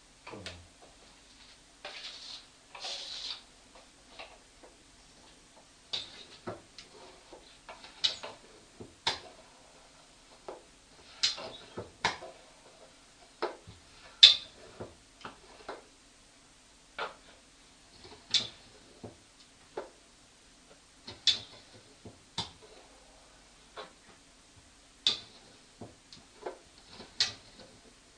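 Irregular sharp clicks and light taps in a small room, about one a second at uneven spacing, some much louder than others; they are thin and bright rather than deep thuds.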